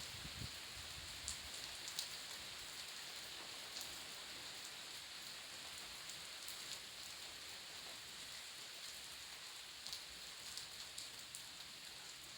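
Steady rain hiss, with a few louder drops ticking sharply on a surface.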